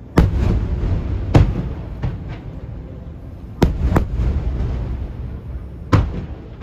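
Aerial fireworks shells bursting: five loud booms, two of them in quick succession just past the middle, each trailing off in a low rolling rumble.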